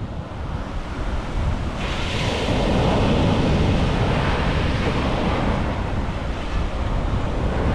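Ocean surf breaking and washing up a sandy beach, with wind buffeting the microphone. The hiss of the surf swells about two seconds in and keeps going.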